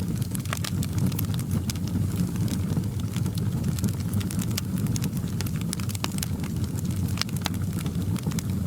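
Wood fire crackling in a fireplace: a steady low rumble of flames with frequent irregular sharp pops and crackles.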